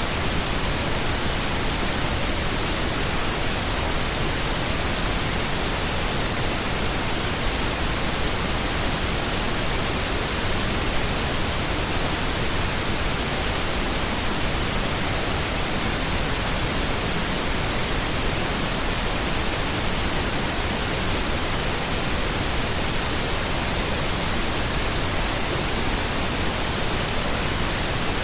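Steady pink noise: an even, unchanging hiss with no events in it.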